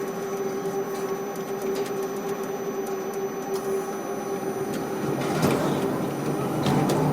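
Ship-to-shore quay crane machinery running with a steady whine over a mechanical hum and scattered clicks, growing louder and busier about five seconds in.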